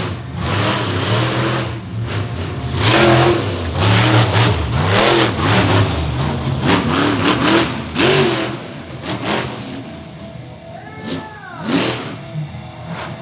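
Monster truck engine revving hard in repeated surges, its pitch swinging up and down, then easing off to lighter revs over the last few seconds.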